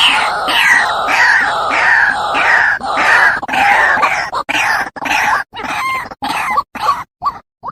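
White-breasted waterhen (ruak-ruak) calling: a rapid series of harsh notes that fall in pitch, about two a second, breaking into short choppy notes after about five seconds. It is a lure call used to draw the birds in.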